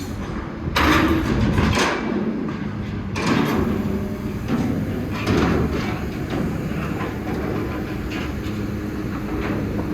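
Busy city construction-site noise: a steady low machine hum under a general rumble, with louder noisy surges about a second, three seconds and five seconds in.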